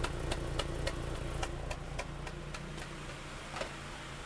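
Honda H22A engine idling, with a regular light ticking about three to four times a second that thins out near the end.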